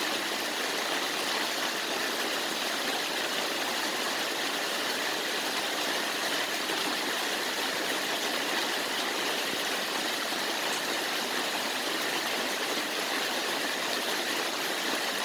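Heavy monsoon rain pouring down steadily: an even, unbroken hiss.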